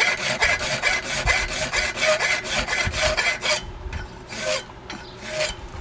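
A hand file scraping along the edge of a horseshoe's toe clip in quick, even strokes, about five a second, to put a small bevel on it. After about three and a half seconds it slows to two or three lighter strokes.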